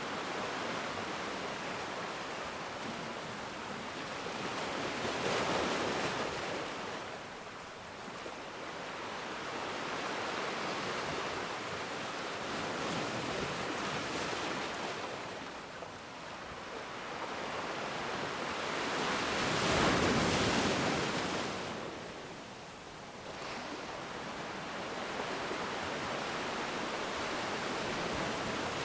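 Ocean waves breaking and washing on shore in slow, uneven swells, with a large one about 5 seconds in and the loudest about 20 seconds in.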